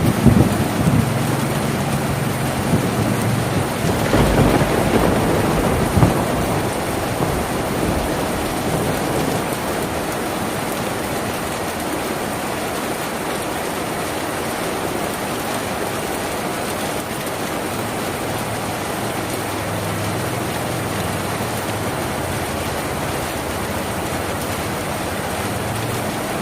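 Steady rain on a tin roof, with thunder rumbling at the start and again about four to six seconds in before the rain settles to an even patter.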